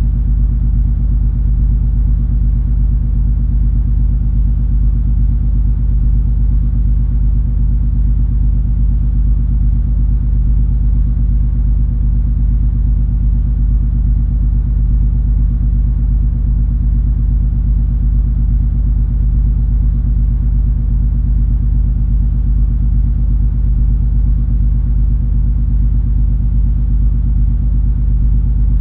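Steady low rumble of the MS Color Fantasy cruise ferry's engines, heard aboard while under way: an unchanging deep drone with several held low tones.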